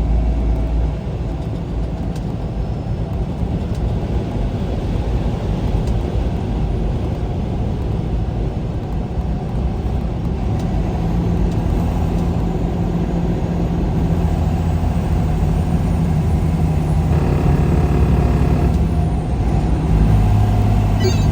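Truck driving on the highway: a steady low engine drone with road noise, the engine note growing stronger about halfway through.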